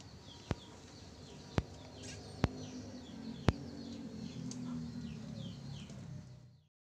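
Small birds chirping over and over in short falling chirps, a few a second. Four sharp clicks come about a second apart in the first half, and everything cuts off suddenly just before the end.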